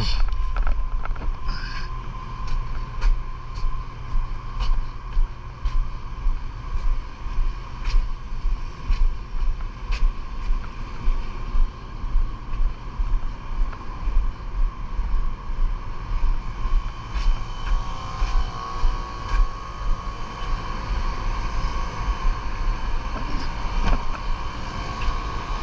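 Rooftop HVAC equipment running: a steady machine hum with a constant whine, under an uneven low rumble that swells about once or twice a second, with scattered light clicks.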